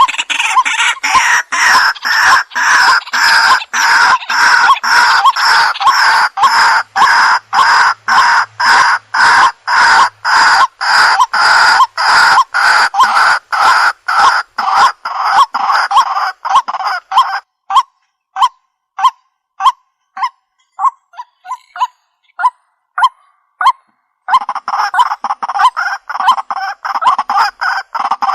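Waterhen (jal murgi) calling: a loud, fast run of repeated calls, about two or three a second. About two-thirds of the way in it thins to sparse short single notes for several seconds, then the full rapid calling resumes.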